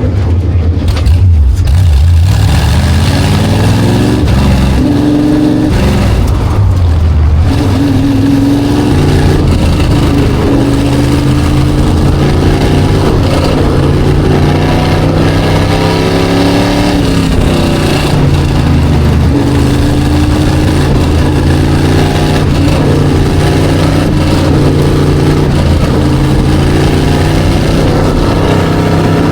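SK Light modified race car engine at racing speed. Its pitch climbs and drops sharply twice in the first eight seconds, like upshifts. It then runs high and steady, easing down and coming back up as the throttle is lifted and reapplied.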